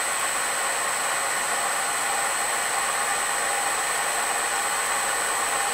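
Bridgeport milling machine running with its four-insert fly cutter spinning clear of the work, not yet cutting: a steady running noise with a constant high whine.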